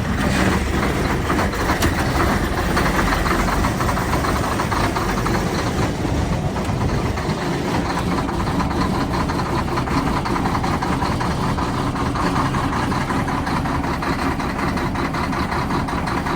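Volvo semi truck's diesel engine idling steadily just after a cold start, not plugged in, after sitting for days in freezing weather.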